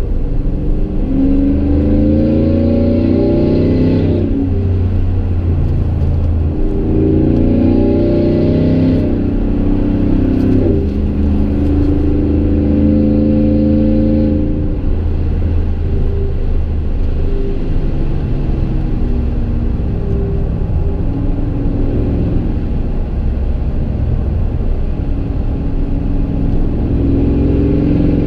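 A 5.3L V8 in a Chevy Silverado, fitted with Kooks long-tube headers and a Gibson M.W.A muffler with no resonator, heard from inside the cab while driving. The exhaust drone climbs in pitch under acceleration and drops back with each upshift, three times in the first ten seconds or so. It then settles into a steady, lower cruise and begins to climb again near the end.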